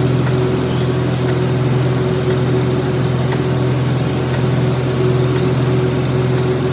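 Workshop machine running with a steady, even hum.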